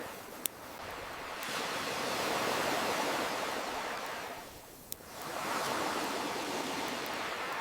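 Ocean waves washing in, swelling twice and falling away in between, with two sharp campfire pops, one about half a second in and one near five seconds.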